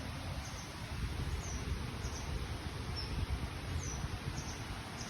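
Forest ambience: a bird repeats a short, high, falling chirp about every second or so over a steady rushing background and a low, uneven rumble.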